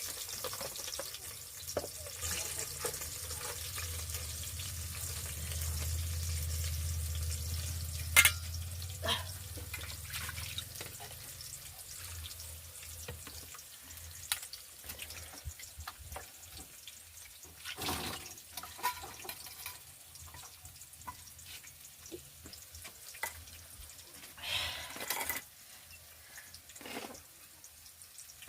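Kitchen cooking sounds: scattered knocks and clatter of pots and utensils, with a sharp knock about eight seconds in. A low rumble runs through the first twelve seconds or so, and there is a short rush of noise near the end.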